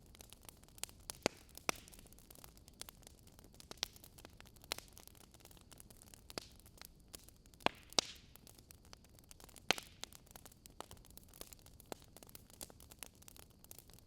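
Burning wood logs crackling, with irregular sharp pops and snaps over a faint hiss; a few louder pops come about a second in and again around eight to ten seconds in.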